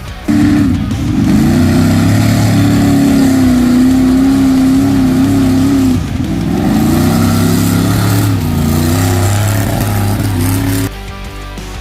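Mud truck's engine held at high revs, loud and steady for about ten seconds. It starts suddenly, dips briefly about six seconds in, and cuts off near the end.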